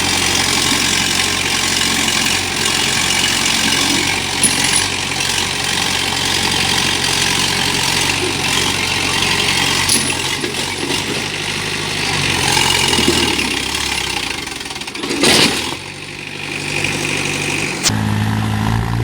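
Tractor engine running steadily, with a sharp loud noise about fifteen seconds in. Near the end it cuts abruptly to a different engine with a deeper, stronger tone.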